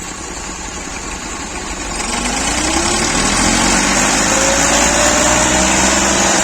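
Tractor diesel engine running steadily, then revving up from about two seconds in, getting louder with its pitch rising steadily.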